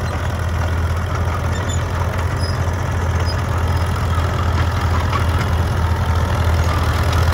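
1948 International TD6 crawler tractor's four-cylinder diesel engine running under load as it drives up a hill in second gear: a steady low drone, growing slightly louder near the end.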